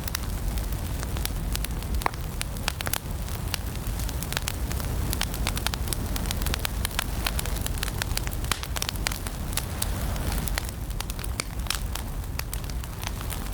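Wood fire burning in a fireplace: a steady low rumble of flames with many sharp crackles and pops scattered throughout.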